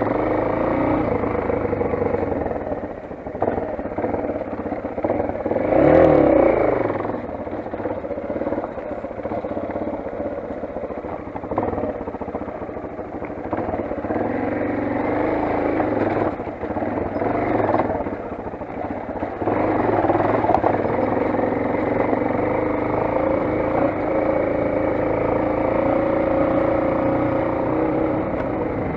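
Motoland XR 250 dirt bike's single-cylinder four-stroke engine running while riding, its pitch rising and falling with the throttle. There is a brief louder rev about six seconds in.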